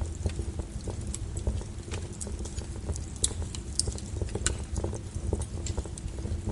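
Wood fire burning with a steady low rumble and irregular crackles and sharp pops from the burning logs.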